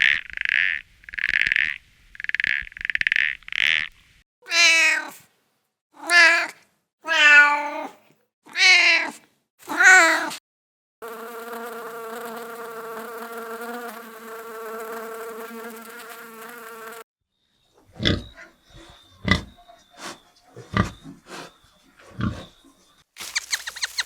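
A series of animal calls: a few short clucks, then five kitten meows about a second apart, then a steady buzz lasting about six seconds, then a scatter of sharp clicks and taps near the end.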